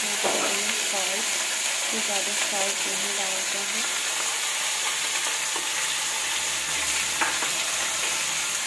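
Diced pumpkin and potato frying in hot mustard oil in a steel kadai, with a steady sizzle. There is one light knock about seven seconds in.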